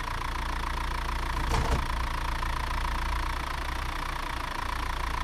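Small truck engine running steadily at idle with a low rumble, and a single brief knock about a second and a half in.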